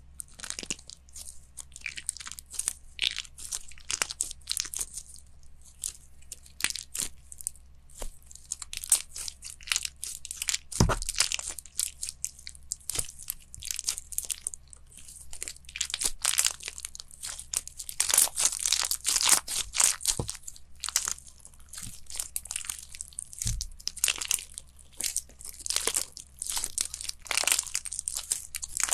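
Crunchy slime being worked, giving a dense, continuous run of sharp crackles and crunches, with a couple of dull thumps partway through.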